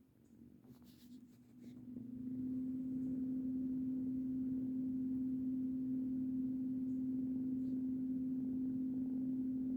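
A steady low humming tone that swells in over the first two seconds and then holds at one pitch.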